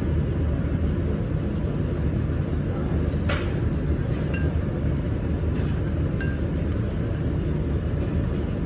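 A few light clinks of tableware, the sharpest about three seconds in, over a steady low rumble.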